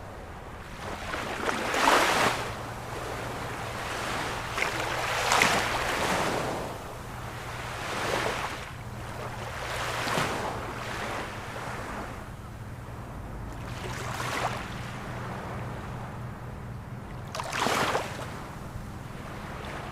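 Ocean waves breaking on shore in repeated surges of rushing surf, one every few seconds, with a faint steady low hum underneath.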